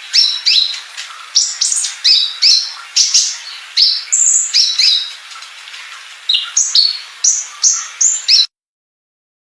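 A caged songbird singing a rapid series of short, sharp, high sweeping notes, about two to three a second, which cut off suddenly near the end.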